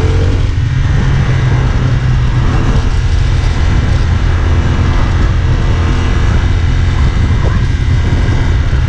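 CFMoto 450SR S motorcycle's parallel-twin engine running at a steady pace while riding, a loud even drone with no change in revs.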